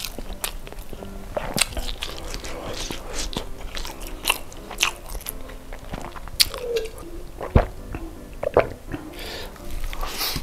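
Close-miked chewing and biting of sauce-coated fried chicken and rice, with crisp crunches and wet mouth smacks. A gulp from a drink comes around the middle, and there is a sharp knock a little past halfway.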